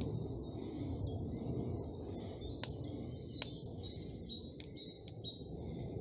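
Forest birds singing, a run of short, high chirps repeated several times over a low steady rush. A few sharp cracks stand out, the loudest about two and a half and three and a half seconds in.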